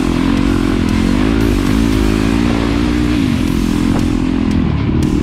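Trail dirt bike engine running under load, its pitch rising and falling with the throttle, over a steady rush of wind and riding noise.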